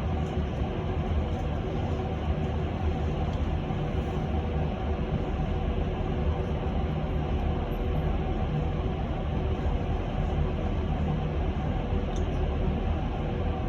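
Cabin noise inside a moving electric bus: a steady low rumble from the road and tyres, with a few faint steady tones from the drive running underneath.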